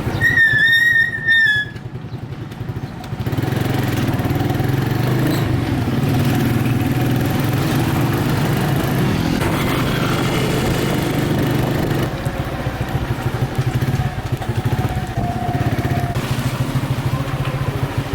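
Motorcycle engine running steadily in slow traffic, a low even hum that rises a little after about three seconds. A brief high wavering squeal sounds over it at the start.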